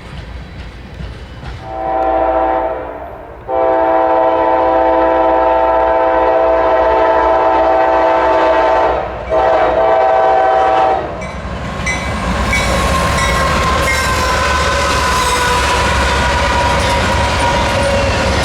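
Locomotive air horn sounding three blasts, short, long, short, then the train rolling past with a steady rumble and the clatter of wheels over the rail joints.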